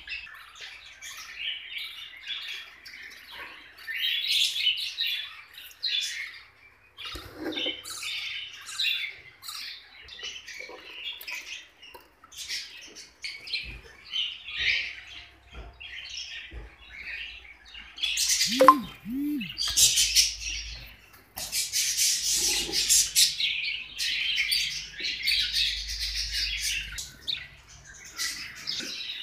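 A group of lovebirds chattering with dense, overlapping high-pitched chirps, with one brief, sudden louder sound about two-thirds of the way through.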